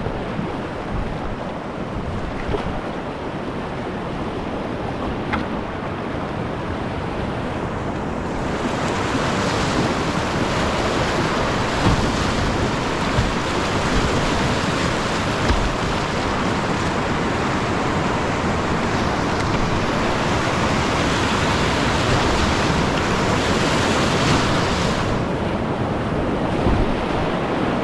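Rushing whitewater of a creek's rapids. It gets louder and brighter about eight seconds in and eases again near the end, with wind rumbling on the microphone.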